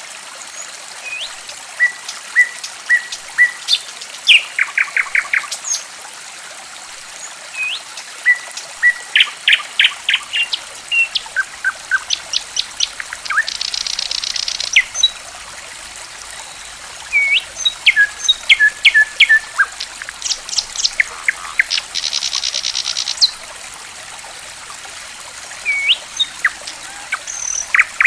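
Songbirds chirping and whistling in quick short notes, with a fast trill about 14 s in and another about 22 s in, over a steady trickle of running water.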